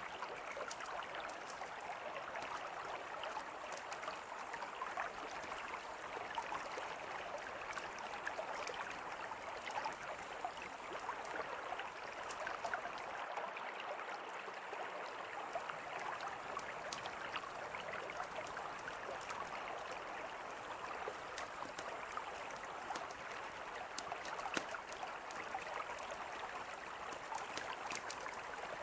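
Steady rush of a flowing river, with frequent small pops and crackles of a wood campfire scattered through it.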